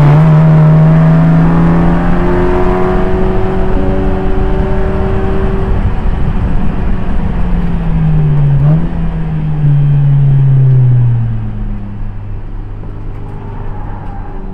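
Audi TT race car's four-cylinder engine under load, its pitch rising and then held high, with a brief dip and recovery about eight to nine seconds in. About eleven seconds in the revs drop and the engine runs on at a lower, steady speed as the car eases off.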